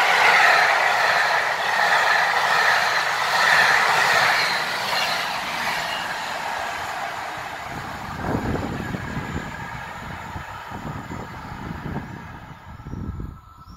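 PKP Intercity TLK passenger coaches rolling past at speed, a rushing rail and wheel noise that steadily fades as the train draws away. In the second half a few low, gusty rumbles come and go.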